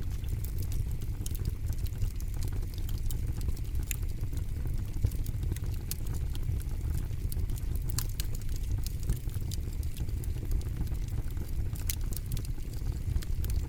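Campfire burning: a steady low rush of flame with frequent sharp crackles and pops from the burning wood, a few of them louder than the rest.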